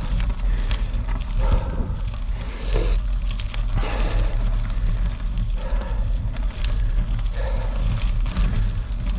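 Wind rumbling on the microphone while riding a bicycle on gravel, with scattered clicks and rattles and a person's heavy breathing swelling about every second and a half.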